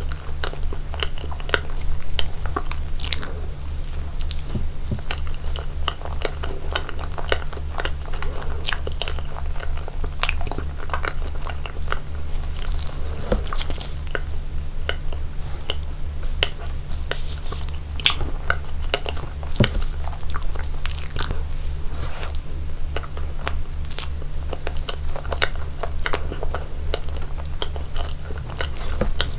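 Close-miked eating sounds of someone eating slice cake: steady chewing with many small wet clicks and the odd light crunch. A constant low electrical hum runs underneath.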